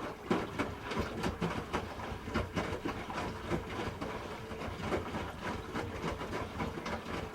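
Hoover H-Wash 300 Plus washing machine drum turning with the load tumbling: a low hum under irregular clicks and knocks, several a second.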